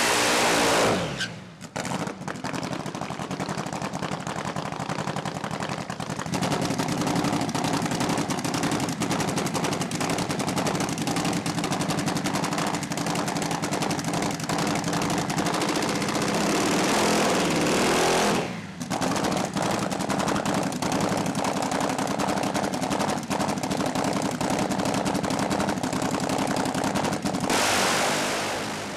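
Drag racing motorcycle engine at high revs during a burnout, then dropping to a fast, rapidly pulsing idle while the bike stages. Near the end it is revved hard as the bike launches, and the sound fades as it pulls away down the strip.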